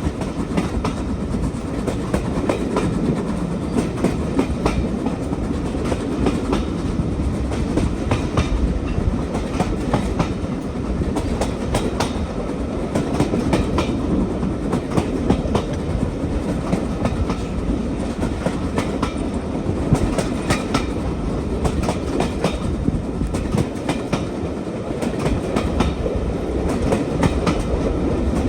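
Passenger train running steadily on a heritage line: a continuous low rumble with the irregular clickety-clack of wheels over rail joints.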